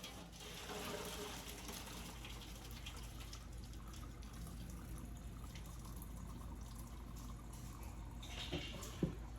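Hot water being poured out of a pot of boiled potatoes into a kitchen sink, a steady splashing stream as the potatoes are drained, with a short knock near the end.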